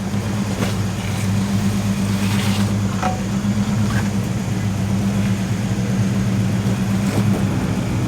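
A 4WD's engine running low and steady as it crawls slowly over the creek track, with a few light knocks and clicks now and then.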